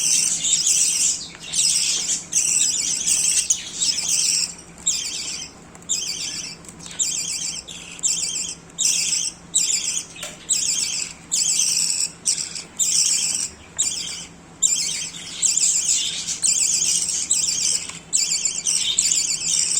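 Budgerigars chirping and chattering almost without pause, in high-pitched bursts broken by short gaps about once a second.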